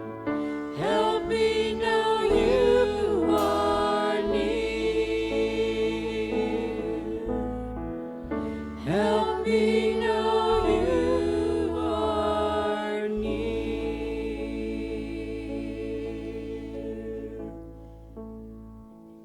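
Music: voices singing two phrases over held chords, then the music slowly fading away near the end.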